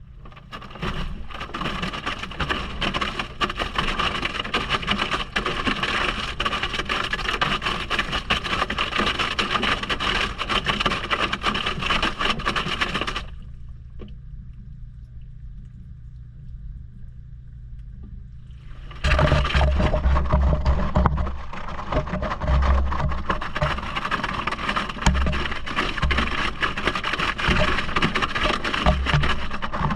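Maytag washing machine running, heard from inside the drum: a steady motor hum under loud water and churning noise. The noise drops away for several seconds around the middle, then returns with heavy, irregular thumps and knocks.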